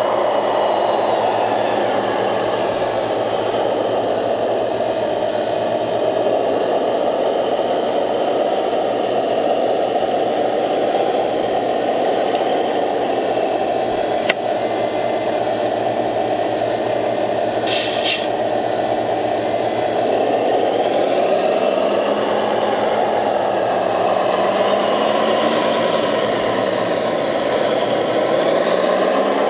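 Electric motors and hydraulic pumps of radio-controlled model construction machines running with a steady whine whose pitch slowly rises and falls as they work. A sharp click comes about halfway through, and a short hiss a few seconds later.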